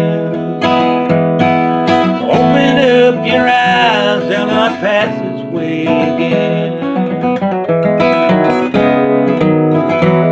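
Acoustic guitar music, strummed and picked in an instrumental passage of a country-style song, with a melody line that bends and wavers in pitch a couple of seconds in.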